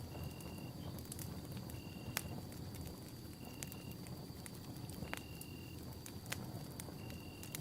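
Wood campfire crackling, with sharp pops over a steady low rumble. A steady high insect trill runs behind it, and a short high chirp repeats about every one and a half seconds, five times.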